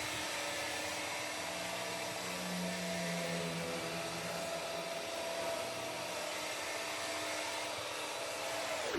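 Ecovacs Deebot N8+ robot vacuum running, its suction fan making a steady whirring hiss with a faint hum under it; near the end the pitch drops sharply as the suction slows down.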